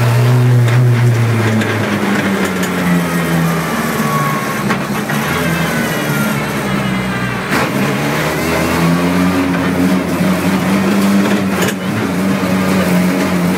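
Skoda rally car engine heard from inside the cabin, revving up and down with gear changes. The engine note drops about a second and a half in, then climbs back up past the middle.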